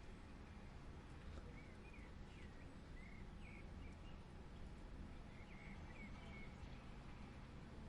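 Faint, steady rain heard in a garage, an even hiss with a low rumble under it. Two small groups of short, high chirps rise above it, one a little after the start and one past the middle.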